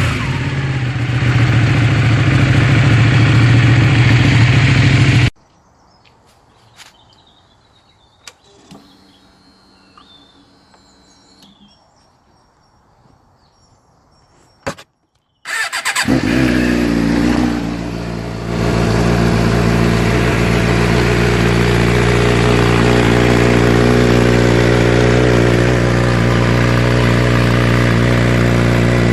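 Sport motorcycle engine running loudly, then about ten seconds of quiet with a few faint clicks. Then a motorcycle engine fires up, its note dropping as it settles, and runs at a steady idle.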